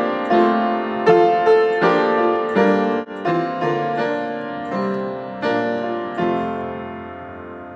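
Solo piano playing slow chords, a new chord struck about every half second to second, each fading after it is struck; the last chord is held and dies away near the end.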